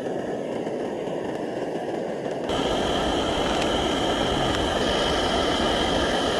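Gas camp stove burner running under a pot of water, a steady rushing hiss. About two and a half seconds in it gets louder, with a deeper rumble and a thin steady whine on top.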